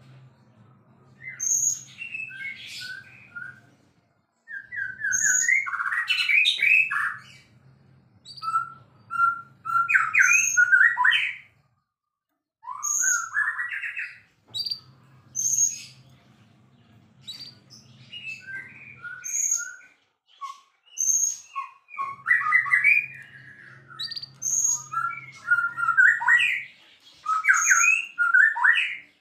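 White-rumped shama (murai batu) singing vigorously: repeated bursts of varied, rich whistles and quick chattering notes with sharp high notes, each phrase a second or two long with short pauses between.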